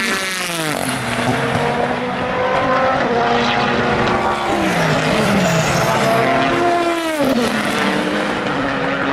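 WEC endurance race cars passing at speed, several engines heard at once. Each engine note drops in pitch as the car goes by: once at the start, and again about seven seconds in.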